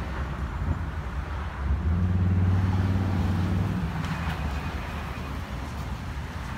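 Street traffic: a vehicle engine running close by, a low hum that swells about two seconds in and fades again about two seconds later.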